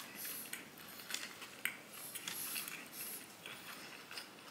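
Close-up biting and chewing of a tortilla turkey wrap packed with lettuce: a string of short, crisp crunches and wet mouth clicks.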